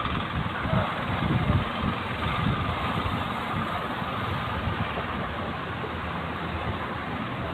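Fishing boat's engine running steadily, under wind and sea noise.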